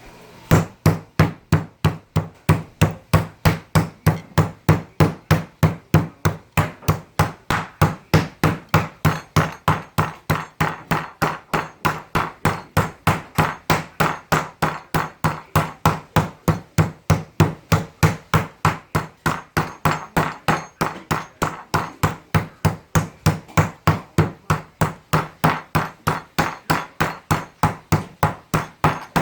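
Meat tenderizer mallet pounding a steak flat, a steady run of blows at about three a second.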